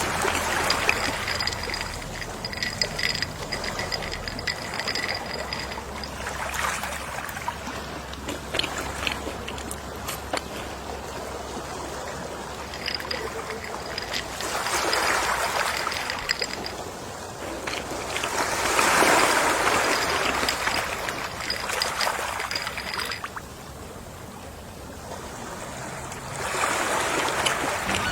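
Gentle sea waves washing onto the shore, swelling and ebbing about five times, with a faint high thin tone in places.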